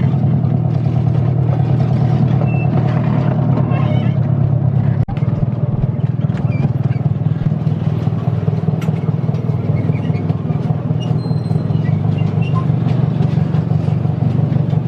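Small engine of a 7¼-inch gauge miniature diesel locomotive running steadily with a fast, even beat, broken off briefly about five seconds in.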